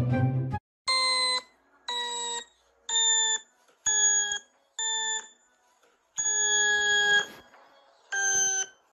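A series of seven high, squeaky tones, each half a second to a second long with short silences between, each holding steady or sliding slightly down in pitch.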